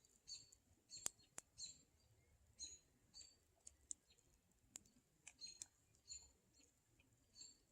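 Faint, short high-pitched chirps repeating irregularly about once or twice a second, with a few sharp pops from the wood campfire.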